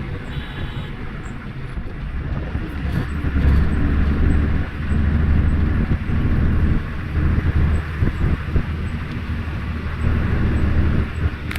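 Steady low rumble of a vehicle in motion, growing heavier a few seconds in, with a brief high tone near the start.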